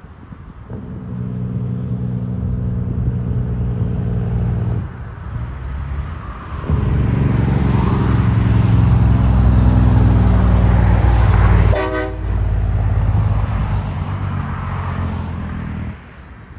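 Semi truck's air horn sounding a long low steady blast, stopping, then a second longer blast as the truck passes, with the engine and road noise swelling under it.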